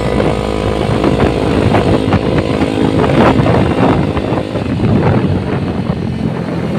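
Motorcycle engine running while being ridden, with road and wind noise.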